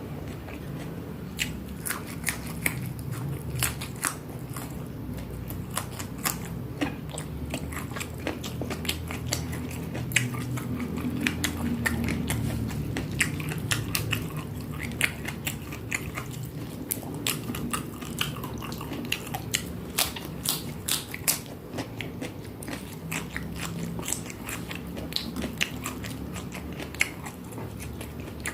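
A person chewing and biting crunchy food, with many sharp, irregular crunches over a low steady munching.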